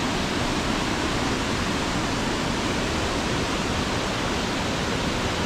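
Waterfall water rushing steadily in a rainforest stream, a constant even roar of falling and churning water close by.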